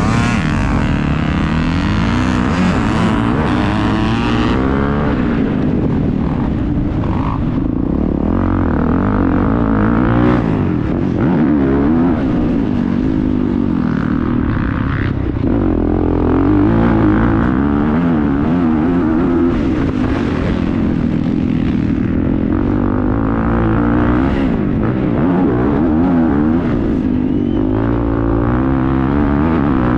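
Motocross bike engine heard on board, revving up and dropping back over and over as the rider accelerates, shifts and brakes around the track.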